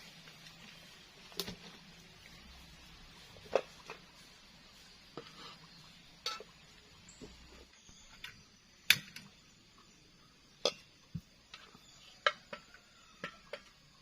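Cookware and utensils handled while cooking, with irregular clinks and knocks, about a dozen in all, the loudest near the middle.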